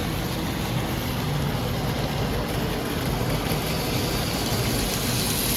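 N scale EMD GP40 model locomotive running slowly around the layout with its train: a steady whir and rolling rattle of the small motor and wheels on the track.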